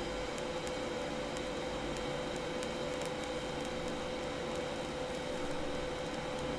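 TIG welder running on stainless steel: a steady hiss and hum with a constant mid-pitched whine and scattered faint ticks.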